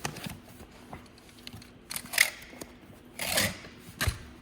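Hand-packing an order: three short rustling, scraping handling noises and a light knock, over a faint steady hum.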